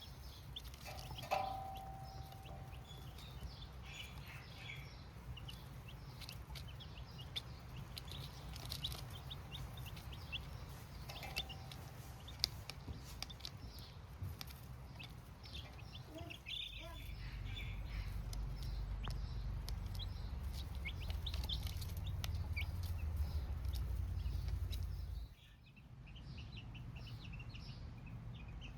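Baby chicks cheeping, a flock of short high peeps overlapping throughout. A low rumble joins in about halfway through and cuts off suddenly a few seconds before the end.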